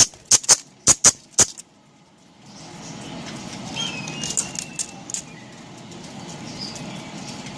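A rapid run of sharp, high clicks or chips for about a second and a half, then a short gap and a steady background hum. A faint budgie chirp comes about four seconds in.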